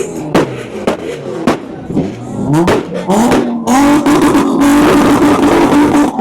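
Car engines being revved hard: several quick revs rise and fall, with sharp cracks among them. About two-thirds of the way in, an engine is held at a steady high rpm.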